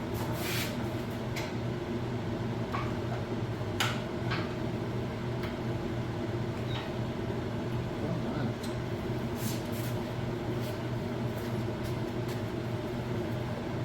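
Light metallic clicks and knocks, scattered and irregular, as pins are worked loose from the grapple's rod clevises, over a steady low hum from a running machine.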